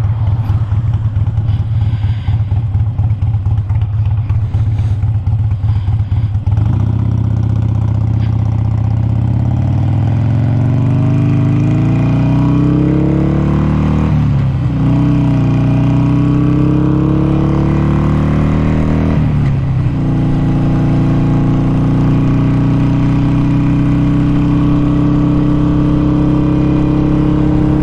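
Harley-Davidson Sportster 883's air-cooled V-twin idling for several seconds with a pulsing beat. It then pulls away, its pitch rising through the gears with two brief breaks for upshifts, and settles to a steady cruise.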